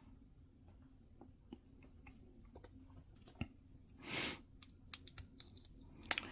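Faint, scattered clicks and taps of small plastic model-kit parts being handled and snapped together, with a brief soft burst of noise about four seconds in and a cluster of sharper clicks near the end.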